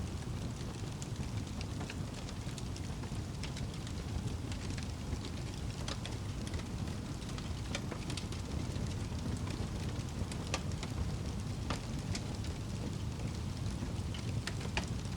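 Wood fire burning in a fireplace, a steady low rush of flame with scattered sharp crackles and pops.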